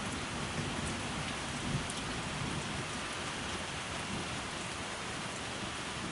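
Steady rain falling, an even hiss with a few separate drop ticks.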